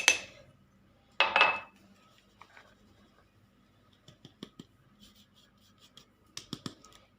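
Kitchen utensils and glassware knocking and clinking: one short clatter with a brief ring about a second in, then faint scattered clicks and taps.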